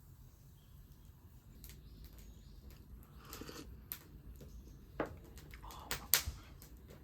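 Wood campfire crackling: irregular sharp pops and snaps, the loudest about five and six seconds in, over a low rumble.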